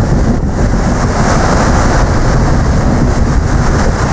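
Heavy wind buffeting the microphone, a steady loud rumble over the rush of the sea, as heard on deck of a paddle steamer under way.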